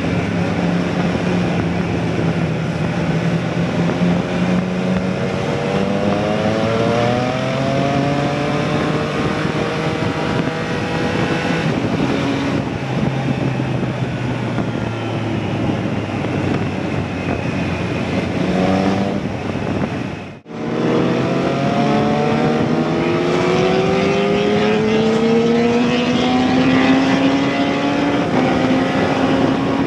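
Motorcycle engine under way, pulling up through the revs and easing off again several times as it accelerates and shifts. The sound drops out briefly about twenty seconds in.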